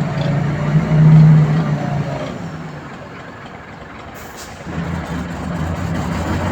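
Heavy dump truck's diesel engine running, loudest in the first two seconds, easing off for a couple of seconds, then picking up again about five seconds in. A brief hiss comes just after four seconds.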